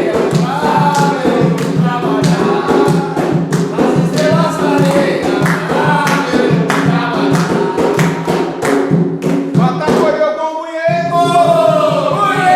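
A group singing an Umbanda ponto (devotional chant) to steady drum beats; the drumming drops out for about a second near the end while a voice carries on.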